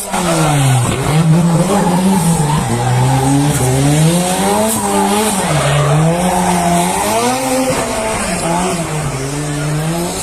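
Turbocharged 2AZ-FE inline-four in a Toyota AE86 Corolla drifting, its revs repeatedly rising and dropping, about once a second, over the hiss of sliding tyres.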